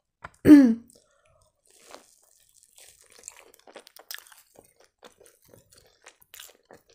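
Close-miked chewing of a crisp-crusted crepe stuffed with chicken, dipped in sour cream: many faint, short mouth clicks and smacks.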